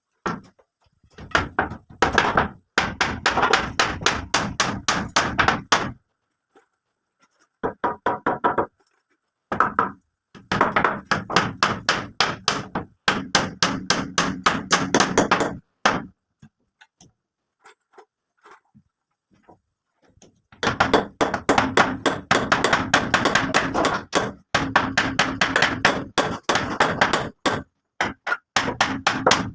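Rapid knocking of a hand tool on wood, about six blows a second, in runs of a few seconds broken by short pauses and one longer pause near the middle.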